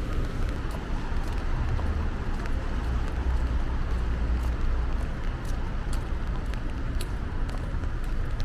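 Steady city traffic hiss and low rumble of cars on wet roads in the rain, with scattered sharp ticks throughout.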